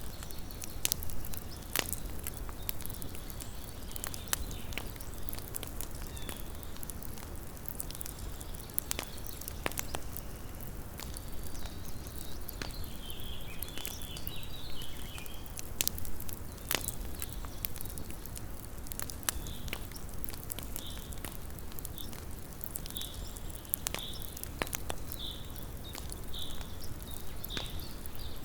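Small wood campfire crackling, with irregular sharp pops and snaps over a low steady rumble of the burning. In the second half faint high chirps come in, repeating about once a second near the end.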